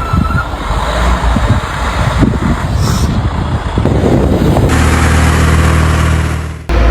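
Motor vehicle sound in several short cuts: traffic and engine noise, then a steady engine hum for a couple of seconds near the end.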